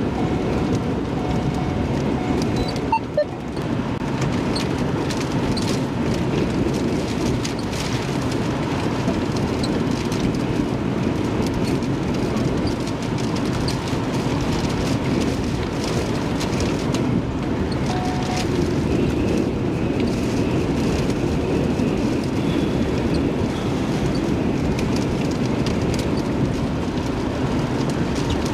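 Steady rushing noise of strong wind and rain around a storm chaser's vehicle, with a brief dropout about three seconds in.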